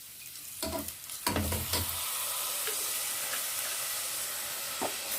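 Pork sautéing in a pan. A few knocks of a utensil come about a second in, then a steady sizzle as fish sauce is added to the hot pan.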